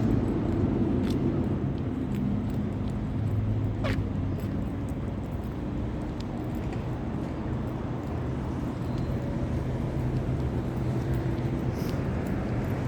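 Motor vehicle engine running steadily with a low rumble, and a single short sharp chirp about four seconds in.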